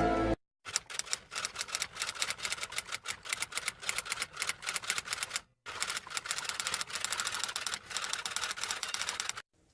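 Typing sound effect: fast, irregular key clicks, with a short pause about halfway through.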